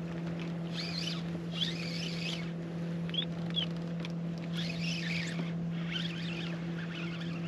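Electric trolling motor humming steadily on the kayak, with bursts of high chirping calls from birds over it.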